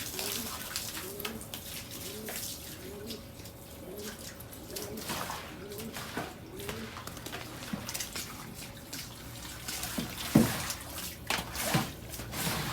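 Domestic pigeons cooing, a repeated rising-and-falling coo about three times every two seconds, over splashing water from the floor being rinsed. A few sharp knocks come near the end.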